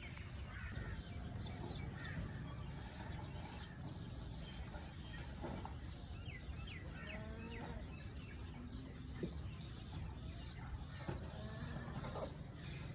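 A cow mooing: one long low call about halfway through, with small birds chirping around it.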